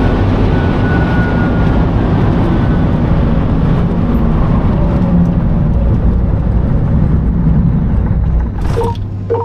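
Car driving at high speed, a steady rush of wind and tyre noise that cuts in suddenly and falls away about eight and a half seconds in. The car is the Rimac Nevera R, an electric hypercar, so there is no engine note.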